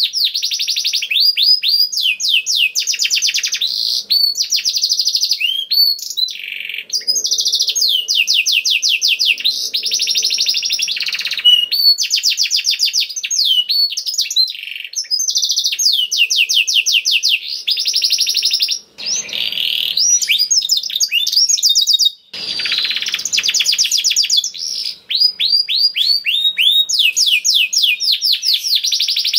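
Domestic canary singing continuously: long, rapid trills of repeated chirping notes, phrase after phrase with only brief pauses between.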